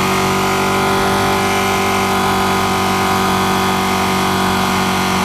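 2016 Ducati 959 Panigale's L-twin engine running at a steady pitch while the motorcycle is ridden, heard from the rider's position.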